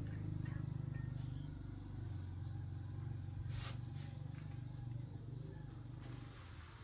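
Small engine running steadily with a low, rapidly pulsing hum; a sharp click or tap sounds about three and a half seconds in.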